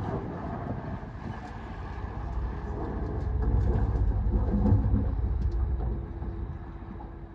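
Heavy diesel earthmoving machinery rumbling, getting louder about halfway through and then easing off, with a faint steady whine near the end.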